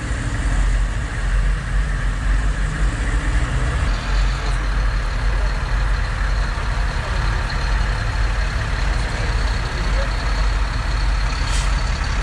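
Heavy military truck engines running steadily with a low rumble. A steady high whine joins in about four seconds in, and there is a short hiss near the end.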